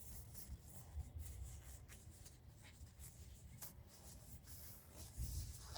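Faint handling noise from working on brake caliper parts: scattered light clicks and soft rubbing over a low rumble, with a louder rub about five seconds in.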